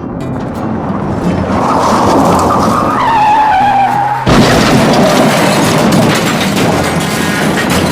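Car sounds: rushing noise builds up, then a squeal falls in pitch about three seconds in, like a car skidding. About four seconds in a sudden loud boom follows, and the noise carries on after it.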